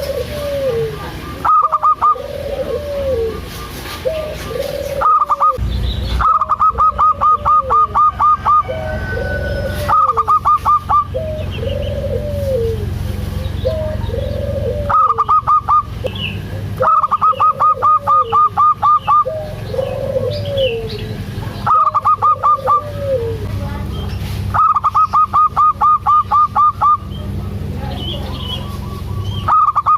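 Zebra doves (perkutut) cooing: a steady run of short, arched coos about once a second, broken every few seconds by loud bursts of rapid staccato notes, about eight a second. A low hum runs underneath.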